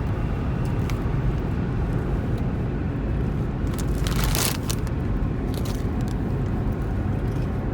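Steady low rumble of a car driving at highway speed, heard inside the cabin, with a brief hiss about four seconds in.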